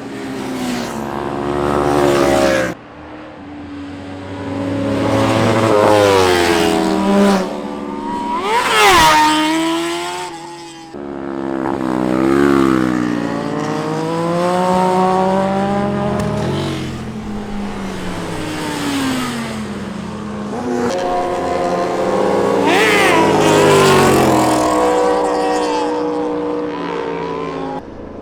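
Superbike engine revving hard, its pitch climbing under acceleration and falling when the rider backs off, again and again. There are sudden drops about three seconds in and again near eleven seconds.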